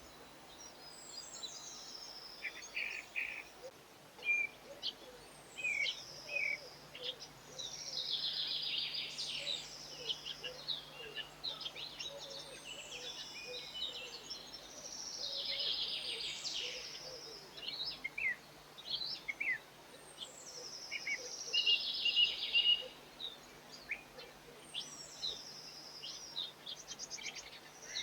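A garden songbird singing a short, high song phrase again and again, about every five seconds. Each phrase opens with a falling note and runs into a fast trill, with scattered single chirps between the phrases.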